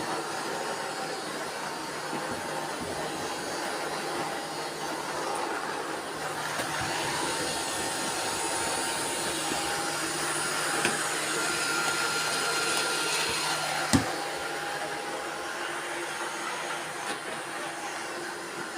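Robot vacuum cleaners running together: a steady whir of suction motors and brushes with several thin whines over it and a few faint clicks. A single sharp knock about three-quarters of the way through is the loudest moment.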